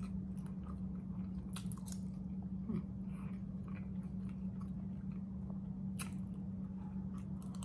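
A person chewing food with her mouth closed, close to the microphone, with a few sharp mouth clicks and smacks scattered through. A steady low hum runs underneath.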